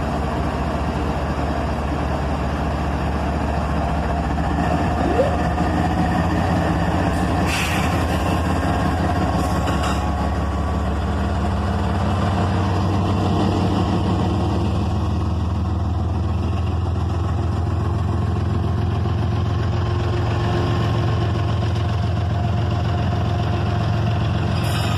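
Diesel engines of CSX GE freight locomotives running steadily with a low, even drone, with a couple of faint clicks partway through.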